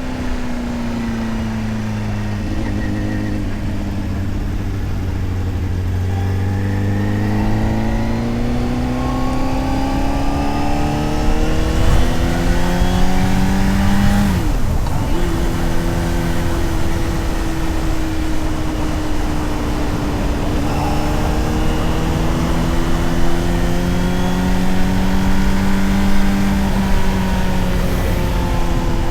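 Honda CBR600RR's inline-four engine and exhaust under way at moderate revs: the pitch eases off at first, then climbs steadily under throttle, drops sharply at an upshift about halfway through, and climbs again, with steady wind rush throughout.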